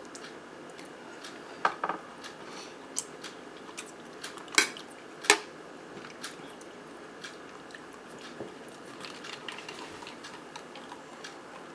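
Utensil clinking against a plate a few sharp times in the first half, then soft chewing of a cheesy zucchini boat.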